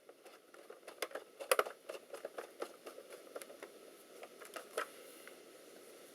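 Irregular small clicks and taps of plastic and metal as a laptop's case and parts are handled during reassembly, with a louder cluster of knocks about one and a half seconds in.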